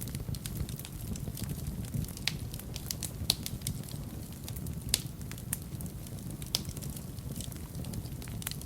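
Wood fire burning in a fireplace: a steady low rumble of flames with irregular sharp crackles and pops, the loudest a little after three seconds and again about five seconds in.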